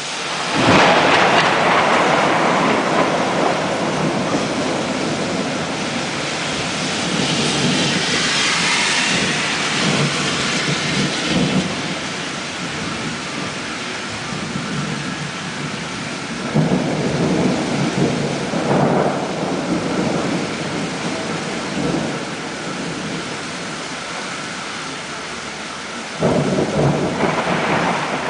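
Thunderstorm: rain falling steadily while thunder cracks and rumbles several times, loudest just under a second in, again in the middle, and with a sudden crack near the end.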